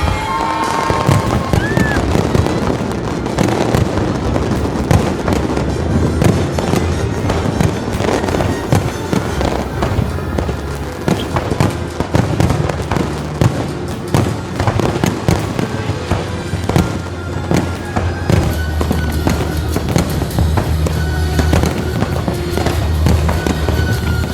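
A fireworks display bursting almost without pause, with rapid bangs and crackles over music that carries a steady low bass.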